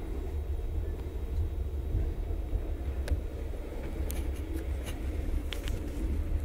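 Bombardier passenger train of Koleje Mazowieckie running, heard from inside a carriage: a steady low rumble, with a few short sharp clicks about halfway through.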